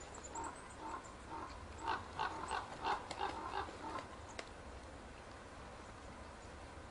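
A run of short animal calls from the ravens and wild boar, quickening to about four a second between two and four seconds in, then stopping.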